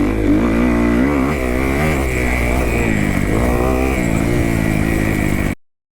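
Kawasaki KX250F's single-cylinder four-stroke motocross engine revving up and down as the rider works the throttle around the track. The sound cuts off abruptly about five and a half seconds in.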